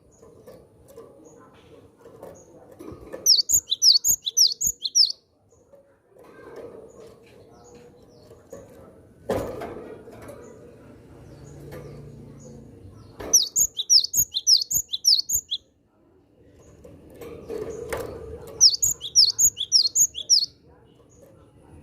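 Cinereous tit (gelatik batu) calling in three bursts of rapid, high chirps, each burst about two seconds long.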